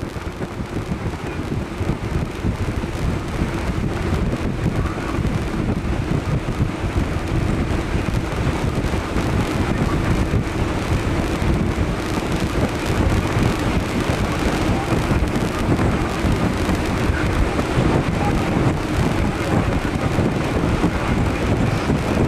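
Strong wind buffeting the microphone, a steady gusty rumble with a faint even hum underneath.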